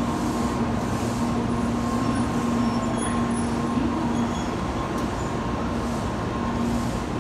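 An N700-series Tokaido Shinkansen train pulling out of the station: a steady running noise with a low hum and a fainter higher tone, the hum easing about two thirds of the way through.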